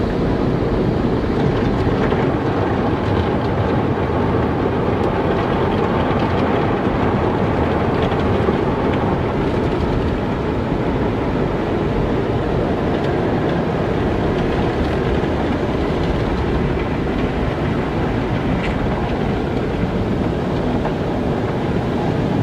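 Automatic car wash running: a steady low noise of water and machinery with a few faint ticks.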